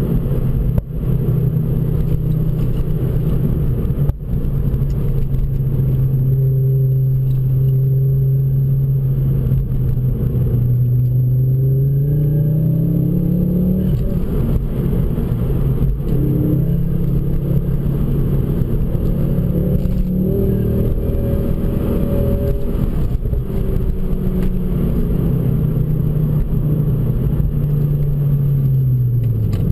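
Ford Focus RS MkII's turbocharged 2.5-litre five-cylinder engine and Milltek exhaust, heard from inside the cabin on a twisting road. The engine note climbs under acceleration around 12 and 20 seconds in, drops sharply at a gear change around 14 seconds, and falls away near the end as the car slows. There are a few short knocks in the first few seconds.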